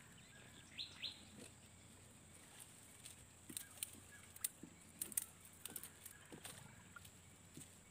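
Faint riverside ambience with two short rising bird chirps about a second in, then a scatter of light clicks and taps for a couple of seconds near the middle.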